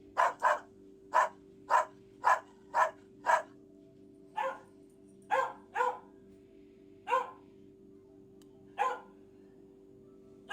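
Dog barking repeatedly: a quick run of seven sharp barks in the first three and a half seconds, then five more single barks at slower, uneven intervals.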